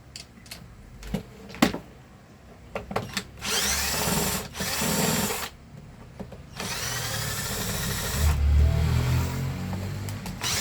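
Electric screwdriver with a fine bit running in bursts as it backs screws out of a plastic vacuum cleaner housing: two short runs, then a longer one of about three and a half seconds, its motor pitch rising and falling. A few sharp clicks of handling come first.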